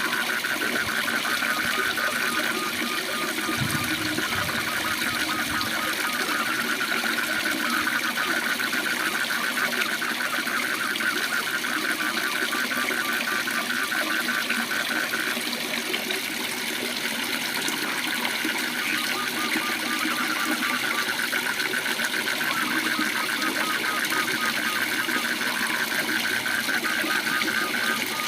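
Steady rush of a waterfall with a frog's fast, pulsing trill over it. The trill drops out for several seconds about halfway through and then comes back.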